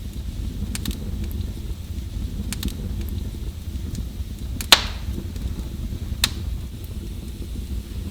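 Wood fire burning in a fireplace: a steady low rumble with scattered crackles and one sharp, loud pop a little past halfway, followed by a smaller pop about a second and a half later.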